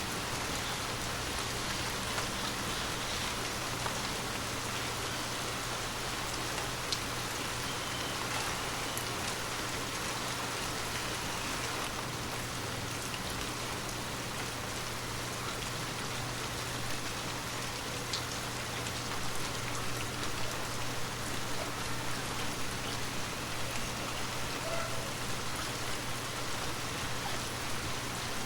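Water drops tapping on glass, a dense steady patter of rain-like hiss with scattered separate ticks, over a faint low steady hum.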